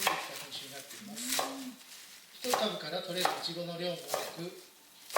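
Clinks and knocks of dishes and utensils being handled, over a voice talking in the background.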